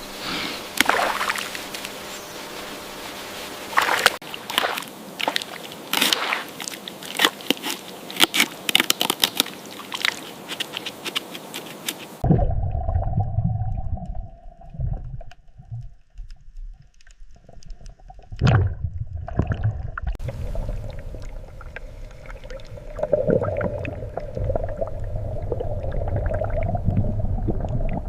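Water sloshing and splashing, with many sharp splashes and drips over the first dozen seconds. About twelve seconds in it cuts abruptly to a muffled, low gurgling water sound.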